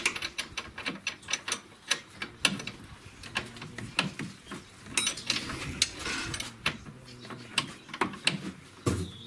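Ratchet wrench clicking in short, irregular runs of strokes while a suspension fastener is turned.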